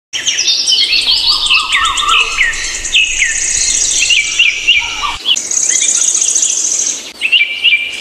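Several small birds chirping and singing together: many quick, overlapping high chirps, with a rapid high trill running through much of it.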